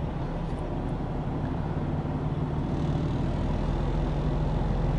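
Semi truck's diesel engine running steadily, heard from inside the cab while driving, with road noise; it grows slightly louder toward the end.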